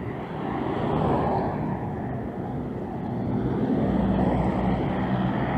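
City street traffic: vehicle engines running, with a steady mix of road noise that swells about a second in and again near the end as vehicles pass.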